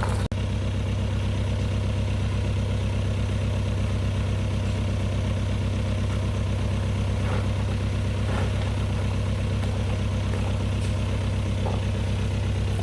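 Truck engine idling steadily, with a brief dropout just after the start and a few faint knocks later.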